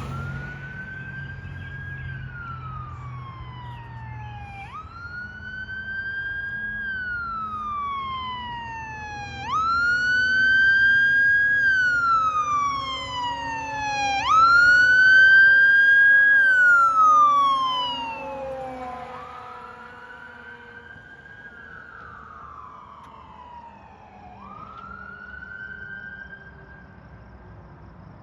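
Fire engine siren on a wail, each cycle rising quickly and falling slowly, about every five seconds. It grows loud about a third of the way in, then fades as the engine moves away.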